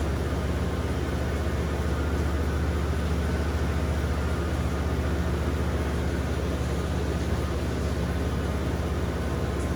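1996 Ford Thunderbird's 4.6-litre V8 running steadily at an even idle, freshly started after sitting unused for years.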